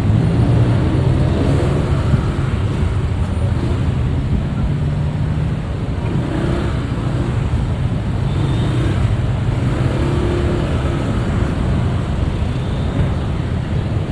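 Motorbike engine running steadily amid city road traffic, heard while riding pillion on the moving bike.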